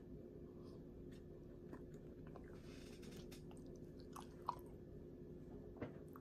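A person chewing and biting french fries: faint mouth sounds and small clicks, with a sharper click about four and a half seconds in.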